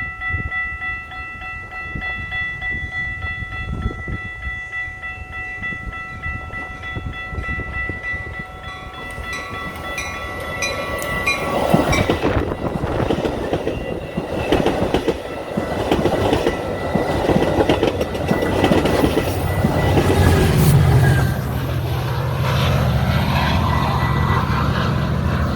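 Grade-crossing bells ringing steadily, then a Metra commuter train with an MP36PH diesel locomotive passes: wheels clacking over the rail joints and a loud rumble from about ten seconds in, and the locomotive's engine droning low near the end.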